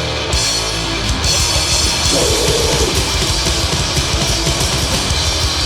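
Extreme metal band recording: heavily distorted guitars over fast drumming, with cymbals crashing in and filling out the sound from about a second in.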